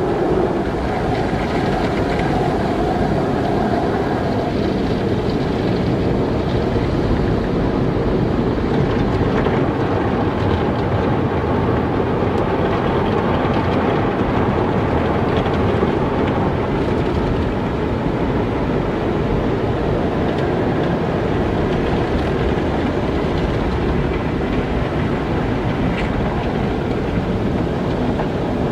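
Automatic car wash running: a steady, loud rush of water and machinery, with no clear breaks or single impacts.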